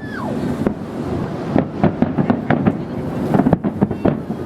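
Fireworks bursting across the river: a rapid, irregular series of booms and cracks over a steady background rumble.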